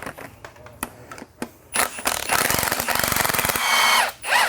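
Power impact wrench hammering for about two seconds, starting about two seconds in, spinning the top nut off a factory Mazda Miata rear shock assembly with its spring still on, followed by a short whine from the tool near the end. A few light clicks of handling the parts come before it.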